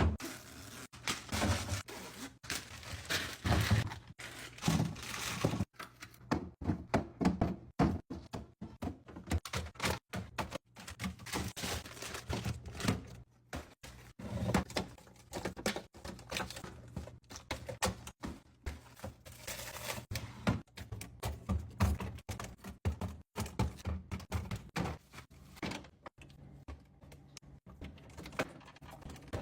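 Groceries and containers being set into a fridge: a steady run of irregular thunks, clacks and knocks as items are put down on shelves, with bins and drawers sliding in and out.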